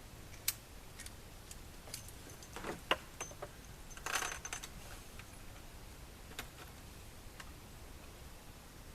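Faint, scattered metallic clicks and clinks of a revolver being handled and reloaded, with brass cartridges knocking together, a short flurry of them about four seconds in. No shots are fired.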